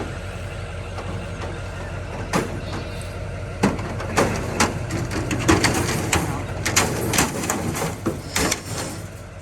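Sheep moving about as they are coaxed out, their hooves and bodies making a run of sharp knocks and clatters that come thick and fast after about two seconds in. A steady low engine hum runs underneath.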